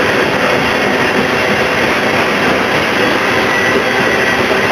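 Freight train cars (covered hoppers and a tank car) rolling past close by: a loud, steady rumble of steel wheels on the rails, with a faint thin whine over it.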